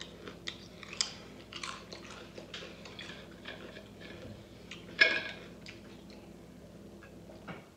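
Close-up crunchy chewing of jalapeño potato chips, with short crisp crackles every fraction of a second. About five seconds in comes a single louder click as a water bottle's cap comes off.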